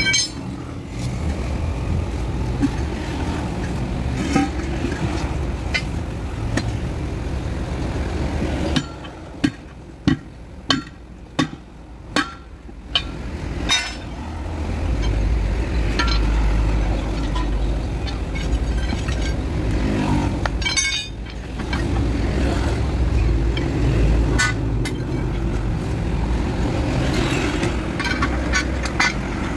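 Heavy diesel truck engine running. Near the middle the engine sound drops and about six sharp knocks come roughly half a second apart. After that the engine's low running sound is heavier.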